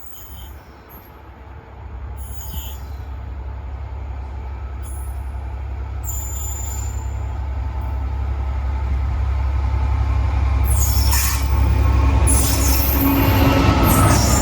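A GB Railfreight Class 66 diesel locomotive approaching with a train, its engine's low rumble growing steadily louder. Wheel and rail noise rises over the last few seconds as it draws close.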